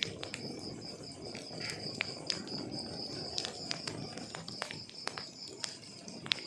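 Burning wood logs crackling, with irregular sharp pops over a low rushing of flames. A steady high-pitched trill runs underneath.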